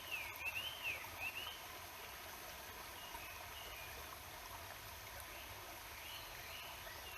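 Steady rushing of a mountain river, with a small songbird singing quick rising-and-falling phrases over it in the first second and a half and fainter calls later on.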